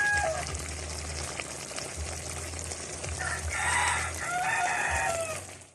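A rooster crowing: the tail of one crow just at the start, then a long crow from about three seconds in that drops in pitch at its end.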